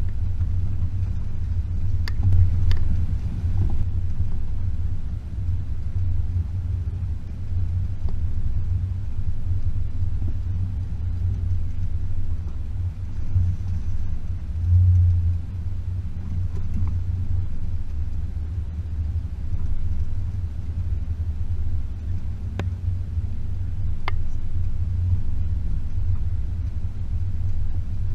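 Range Rover P38's 4.0-litre V8 driving slowly along a rough track: a steady low rumble, with a few faint clicks scattered through it.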